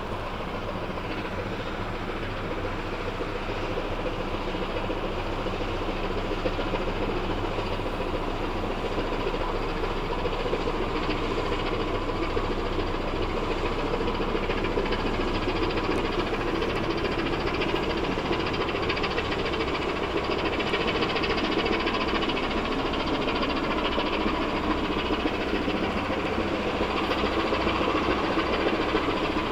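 Ship's diesel engine on the pusher tug Kokenmaru, running as a steady low drone. It grows a little louder over the first several seconds, then holds steady.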